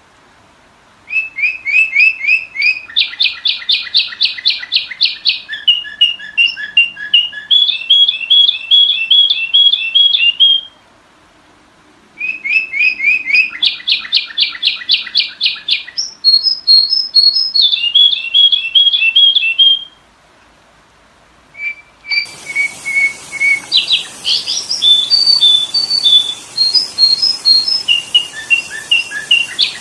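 Sooty-headed bulbul (kutilang) calling in long runs of rapid, repeated chirps, the lure-type call used to draw in wild birds. There are three runs with short pauses between them, and a steady hiss comes in with the third run.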